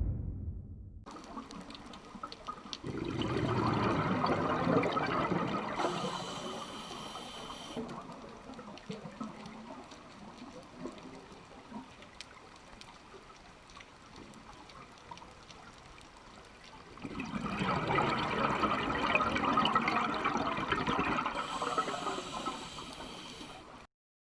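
Sea water washing and splashing, growing louder twice: for a few seconds about three seconds in, and for about six seconds in the second half.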